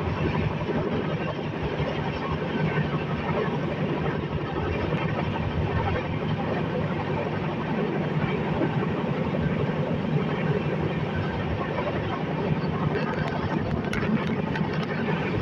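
Passenger express train running, heard from aboard: a steady, unbroken rumble and rush of wheels on the track.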